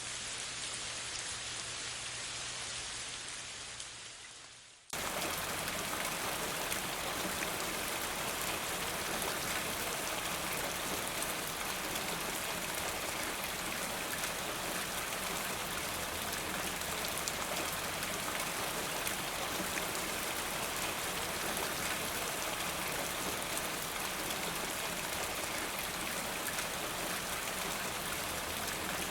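Steady rain falling. About four seconds in it fades away, and about five seconds in a louder, brighter rain cuts in abruptly and carries on evenly.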